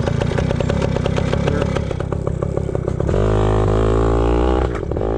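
Yamaha PW80 pit bike's small two-stroke single-cylinder engine under way, choppy and uneven with clatter at first, then about three seconds in settling into a steady drone that rises slightly in pitch as the throttle is held, with a brief dip near the end.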